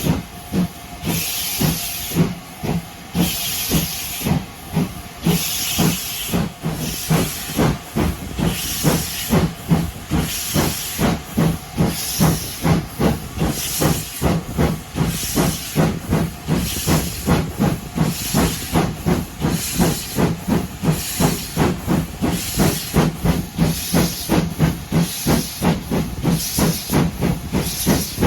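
Steam locomotive working a train, its exhaust beats quickening as it picks up speed, with steam hissing in regular bursts.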